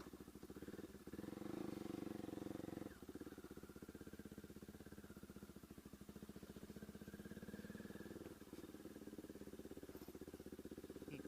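Bajaj Pulsar NS200's single-cylinder engine idling through an SC Project aftermarket exhaust, with even, rapid exhaust pulses. It gets louder for about two seconds starting about a second in, then settles back to a steady idle.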